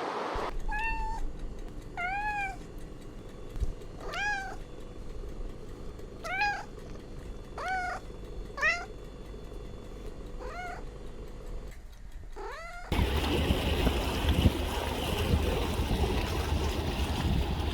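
An animal giving about eight short, mewing calls, each rising and then falling in pitch, a second or two apart. About three-quarters of the way through they stop, and a steady rushing noise takes over.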